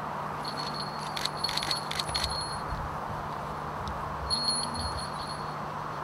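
Small falconry bell on a Harris hawk jingling in two short spells, a clear high ring with little rattles, as the bird moves or flies.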